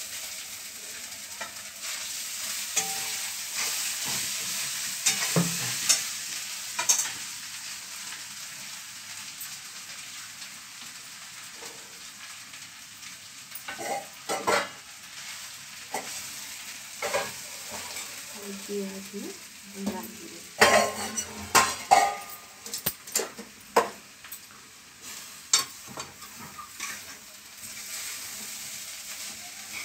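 Soaked poha being tipped into a hot wok-shaped pan of fried spices and onion and stirred with a steel spoon. There is a steady sizzle, strongest in the first several seconds, with the spoon scraping and clinking against the pan. A burst of sharp clinks comes about two thirds of the way through.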